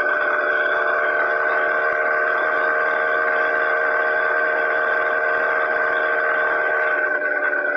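Motorized bicycle's small engine running steadily at cruising speed, a high, even whine that eases off slightly near the end.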